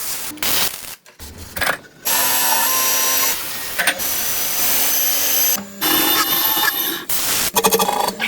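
A small handheld power tool running in several short stretches, with abrupt cuts between them; the longest run lasts from about two seconds in to past five seconds.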